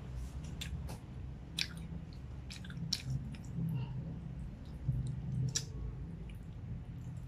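Close, wet chewing of a mouthful of bread and creamy fettuccine carbonara, with soft squishes and scattered short clicks and smacks.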